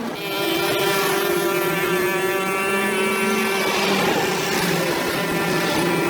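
Small two-stroke engine of a brush cutter running steadily at high speed.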